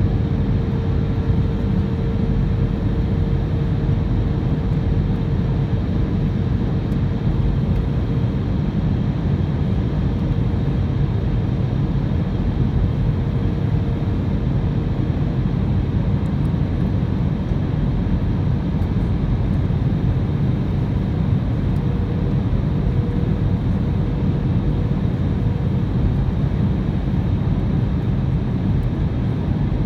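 Airbus A320 cabin noise in flight: the steady, low rumble of the engines and airflow heard from inside the cabin. A faint steady hum runs through it, drops out for a few seconds past the middle and returns.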